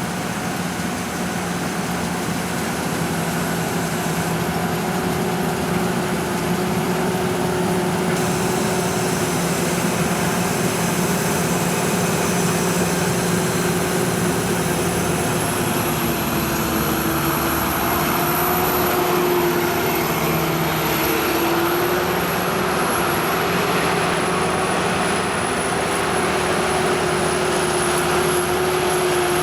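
Sakpattana KM-D#1 rice combine harvester running while harvesting: a steady engine and threshing-machinery drone with a thin high whine that wavers slightly in pitch.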